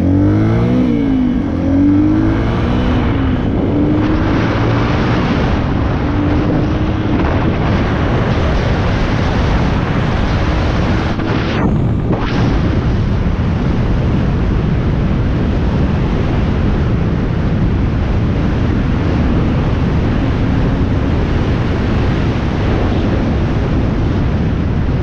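450 dirt bike engine revving up and down in the first couple of seconds, then running steadily under the ride. Heavy wind noise on the microphone covers most of it.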